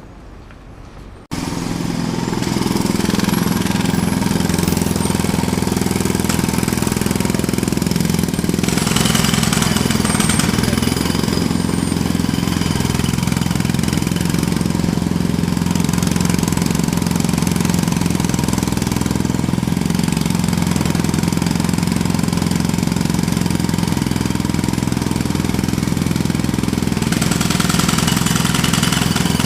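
Jackhammer starting abruptly about a second in and hammering continuously at a rapid, steady rate.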